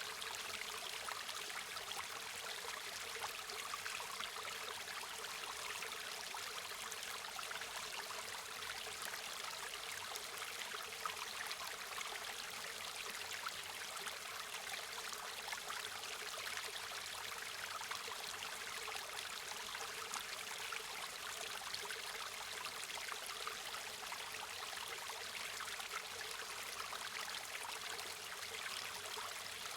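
River water flowing over stones, a steady trickling and babbling hiss with no change in level.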